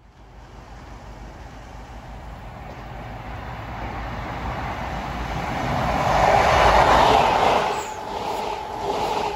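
CrossCountry Voyager diesel multiple unit approaching and passing close at speed. Its engines and wheels on the rails grow steadily louder to a peak about two-thirds of the way in, then hold a steady hum and rushing noise as the coaches go by.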